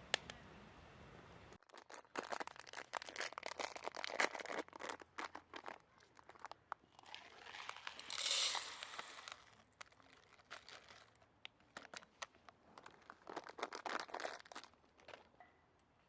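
Close crinkling and clicking of things being handled, in irregular bursts, with a longer hissing rush a little past the middle.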